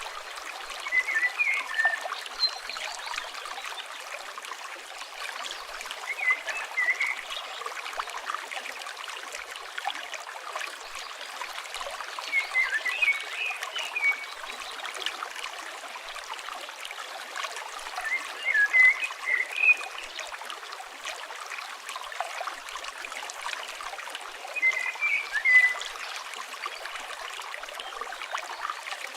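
River water flowing steadily, with a short chirping call that recurs about every six seconds.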